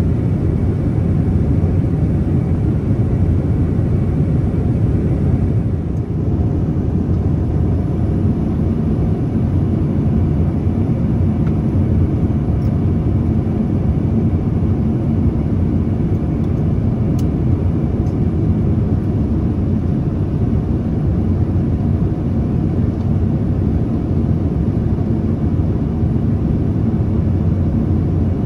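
Steady low rumble of a Boeing 787-10's engines and airflow, heard inside the passenger cabin.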